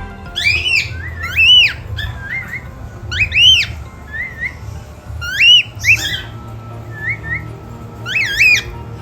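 Cockatiels whistling: about five loud whistles that rise and fall in pitch, a second or two apart, with short, softer chirps in between.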